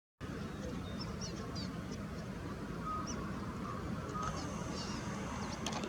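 Steady low outdoor rumble, cutting in after a fraction of a second of silence, with faint, scattered bird chirps and a couple of short calls above it.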